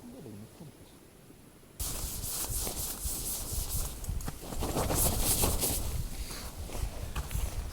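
Rubbing and scraping noise with many short clicks, starting suddenly about two seconds in after a quiet stretch.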